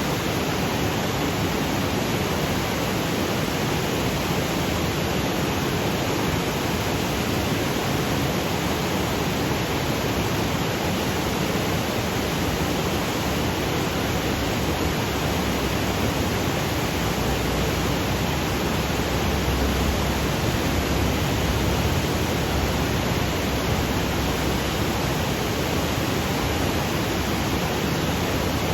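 Waterfall cascading over granite boulders: a steady, even rush of falling water.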